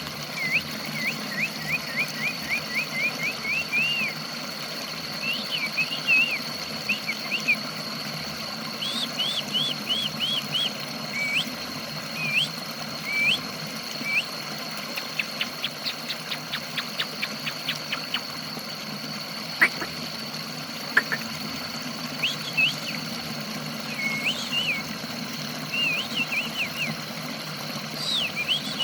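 Caged songbird singing in runs of short, quick rising chirps, with a rapid burst of clicking notes partway through. It sings after a water-spray treatment meant to get a bird that has gone quiet singing again. A steady high whine runs underneath.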